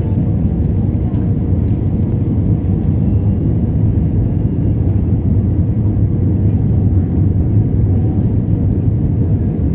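Steady low rumble inside the passenger cabin of an Airbus A320 airliner: engine and airflow noise heard from a window seat.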